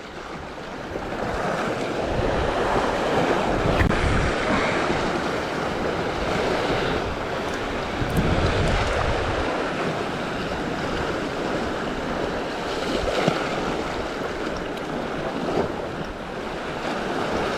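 Sea waves surging and washing over shoreline rocks, with wind buffeting the microphone.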